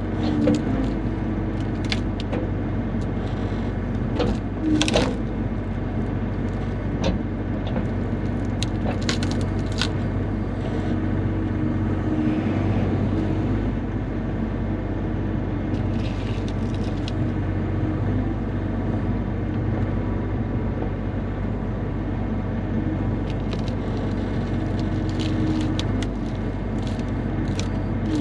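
Bobcat E35 mini excavator's diesel engine running steadily under work, with scattered knocks and clunks, the loudest about five seconds in, as spruce logs are gripped and shifted with the bucket and thumb.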